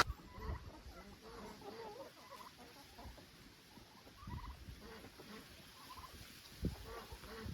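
Farmyard poultry calling faintly with short, scattered clucks and chatter, and a single soft thump about two-thirds of the way in.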